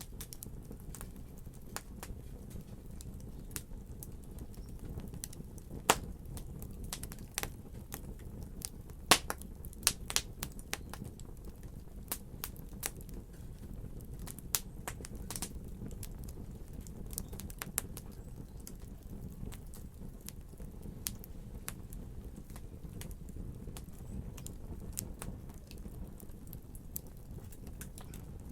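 Wood fire crackling in a fireplace: a steady low rumble of burning with irregular sharp pops and snaps, a few of them louder, about six seconds in and around nine to ten seconds.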